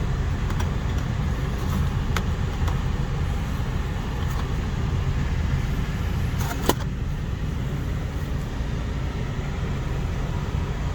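1992 Buick Riviera's 3.8-litre V6 idling steadily after a cold start, with a single sharp click a little past halfway.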